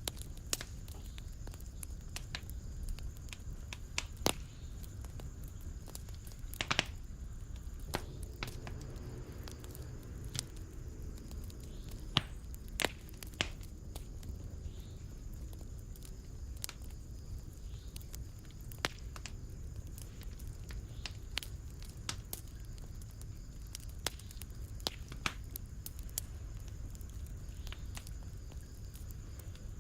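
Wood fire burning in a fireplace: irregular sharp crackles and pops, several of them loud, over a steady low rumble of the flames.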